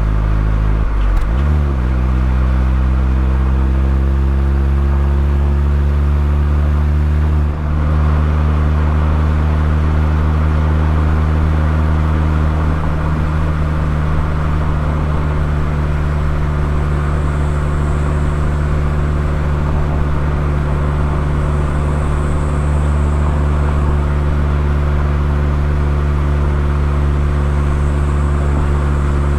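Mazda ND Roadster (MX-5) exhaust note through an aftermarket KPC muffler, running at a steady cruise. There is a short change in pitch about a second in and a brief dip about seven seconds in, like a gear shift.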